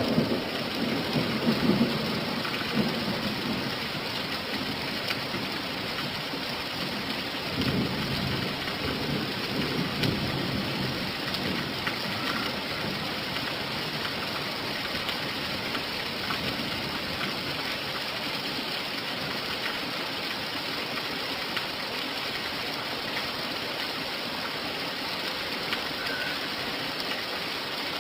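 Steady rain falling, with low thunder rumbling and fading away in the first couple of seconds and a second, weaker rumble of thunder about eight seconds in.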